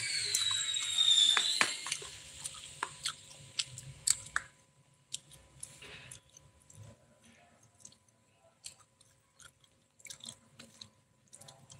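Close-up eating sounds: mouth chewing rice and meat, with scattered sharp clicks and crunches. In the first two seconds a louder sound with gliding high pitches fades out.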